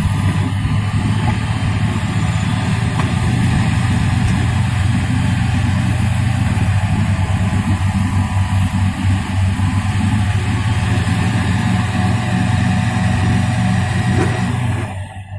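Truck engine running steadily under load, cutting off abruptly near the end.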